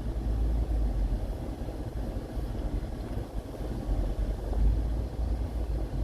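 Car driving, a low rumble of engine and road noise heard from inside the cabin, swelling and easing a little.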